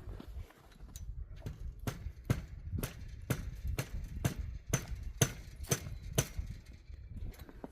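Footsteps in snow, a person walking at a steady pace, about two steps a second.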